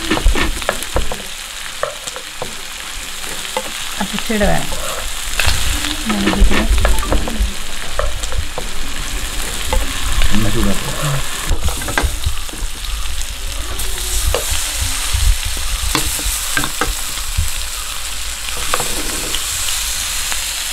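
Masala-coated green mussels (kallummakkaya) sizzling steadily in hot oil in a frying pan as they are dropped in and turned with a metal spoon, with short clicks of the spoon against the pan.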